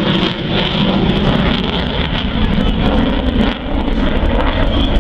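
Loud, steady jet engine noise from a military jet making a pass, easing briefly about three and a half seconds in.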